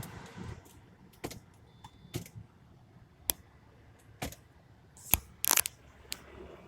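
A whirring hiss dies away at the start, then a series of sharp clicks and taps about once a second, with a louder clattering cluster near the end, like switches and fittings being handled inside a car.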